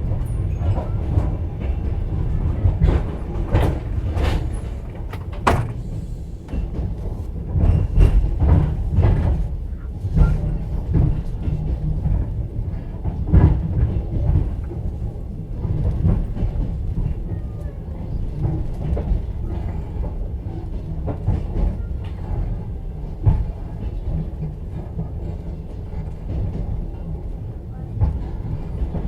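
Passenger train heard from inside a sleeper carriage: a steady low rolling rumble with wheel knocks and clacks at irregular intervals, coming thickest in the first ten seconds.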